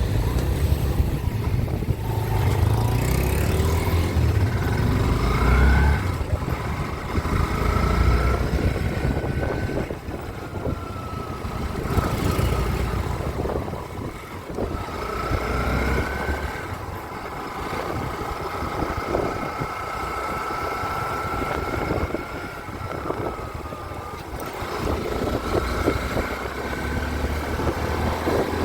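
Small-displacement motorcycle being ridden, its engine note rising and falling over a steady low rumble.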